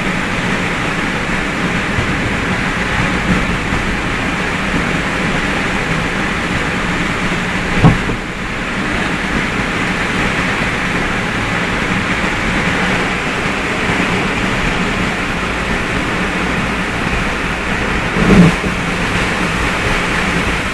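Heavy rain on a moving car and tyres hissing on the wet road, a steady loud noise heard from inside the cabin. Two brief knocks stand out, about ten seconds apart.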